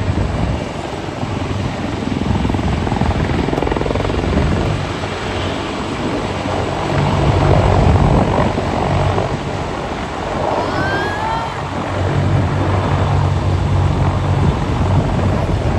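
Aircraft engine noise overhead: a loud, continuous drone that swells and eases as the aircraft passes.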